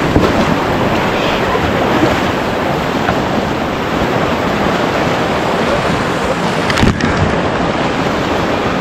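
Whitewater of the Animas River running high at about 4,560 cfs, rushing steadily around a kayak, with wind buffeting the microphone. A brief louder hit about seven seconds in.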